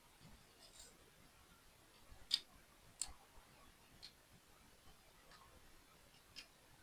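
A few faint, sparse clicks and taps of small plastic toy pieces being handled, with the sharpest click a little over two seconds in and another about a second later.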